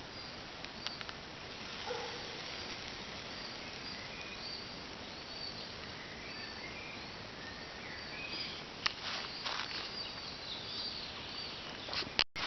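Small birds chirping repeatedly over a steady outdoor background hiss, with a few sharp clicks about nine seconds in and near the end.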